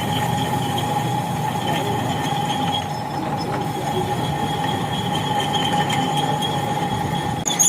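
Drill bit cutting into a hardened steel tractor axle shaft, with a steady high squeal of metal on metal over the machine's running noise: the shaft is very hard to drill.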